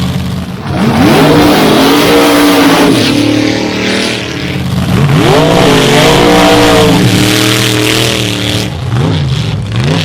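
Drag-racing car's engine accelerating hard down the strip. The revs climb, dip about four seconds in as it shifts gear, climb again, then fall away, with two short revs near the end. A steady low engine drone runs underneath.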